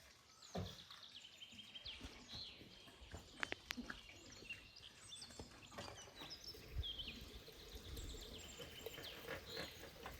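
Small birds chirping now and then over faint outdoor background noise, with a few light clicks and knocks.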